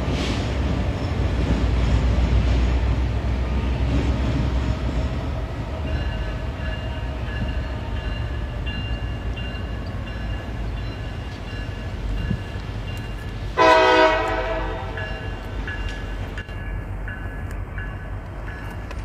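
Train running with a steady low rumble, heavier for the first few seconds. About two-thirds of the way in, the train horn sounds once for about a second, the loudest sound.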